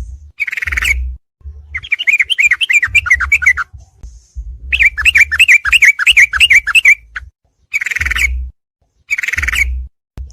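Yellow-vented bulbul (trucukan) song: repeated bursts of rapid, chattering notes, each lasting one to two seconds with short pauses between, with a low hum under each burst.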